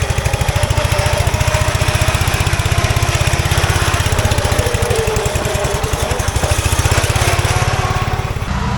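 Riding lawn mower engine running hard, with a fast, even firing beat and a pitch that wavers up and down as the throttle changes.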